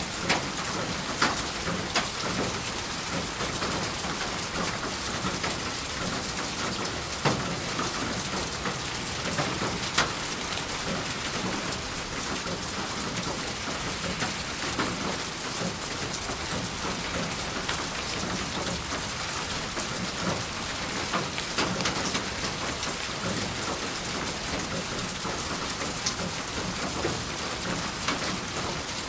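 Steady rain falling: an even hiss with scattered louder drop hits, a few sharper ones within the first ten seconds.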